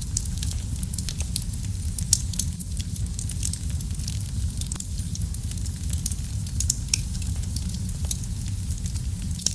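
Wood fire in a fireplace crackling: many sharp pops and snaps over a steady low rumble of the flames, with one louder pop about two seconds in.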